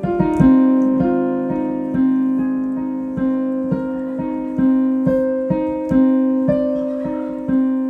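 Solo piano played in improvisation: notes struck about twice a second over held chords, each ringing and fading before the next.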